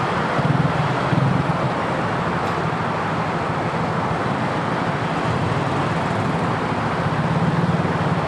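Motorcycle engine running steadily at low speed, with a low even drone and surrounding road traffic noise.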